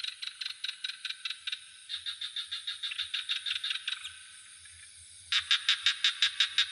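Frogs calling in trains of rapid pulses, about seven a second, in three runs with the loudest near the end, over a steady high-pitched insect trill.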